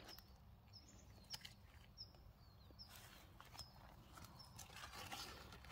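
Near silence with faint, short high chirps of a small bird repeating roughly once a second, and a few soft rustles of leaves.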